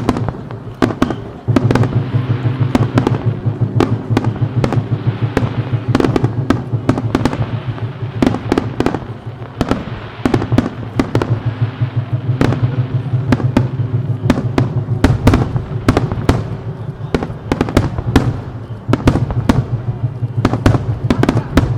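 Starmine fireworks barrage: aerial shells launched and bursting in rapid succession. Dozens of sharp bangs overlap with dense crackling, keeping up a continuous volley.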